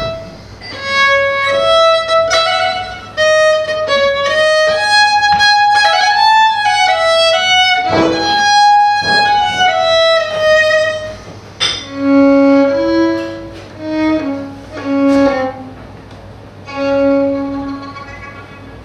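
Solo violin playing a slow melody of held, bowed notes, moving to lower notes about two-thirds of the way through and dying away near the end.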